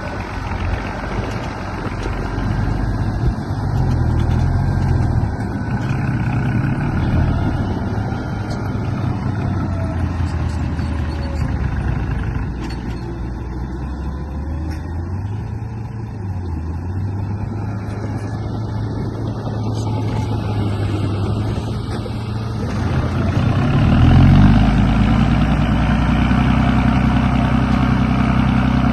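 Engine drone of a remote-control bulldozer, a steady low hum whose pitch rises and falls as the machine works, growing louder and fuller near the end.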